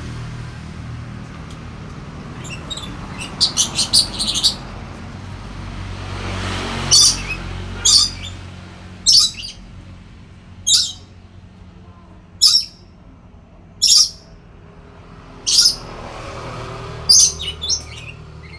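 Lory (nuri parrot) calling in sharp, shrill calls: first a quick run of several, then single calls about every second and a half, and another quick run near the end. A low steady hum runs underneath.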